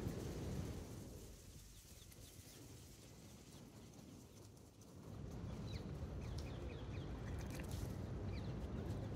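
Outdoor ambience: a low steady rumble that fades for a few seconds in the middle, then a series of short, high, downward-sweeping chirps from small birds in the second half.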